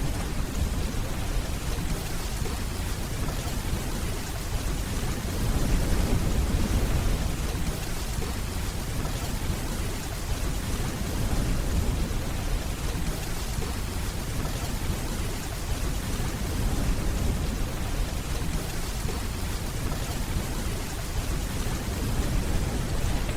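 Steady rainfall with low, rolling distant thunder rumbling underneath, swelling and fading several times.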